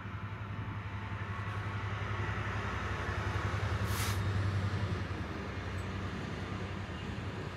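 Class 66 diesel locomotive's two-stroke engine running at a low steady drone as it passes at speed with an intermodal container train, followed by the rumble of the container wagons on the rails. The sound grows louder towards the middle, and there is a brief hiss about four seconds in.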